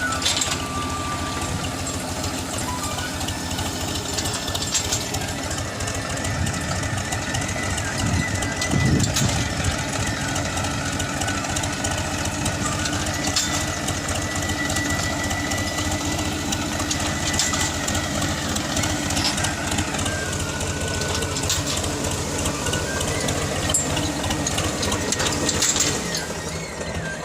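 Tractor engine running steadily under load while it pulls a mounted bunding implement.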